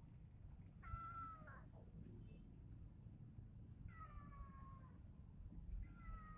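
Domestic cat meowing three times, each meow about half a second to a second long and sliding down in pitch at the end.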